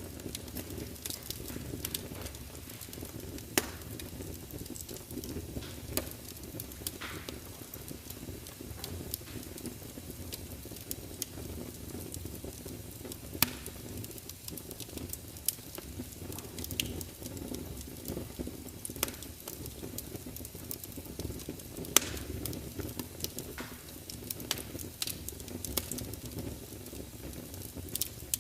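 Wood fire in a large open fireplace burning with a steady low rumble, crackling and spitting with scattered sharp pops and a few louder snaps.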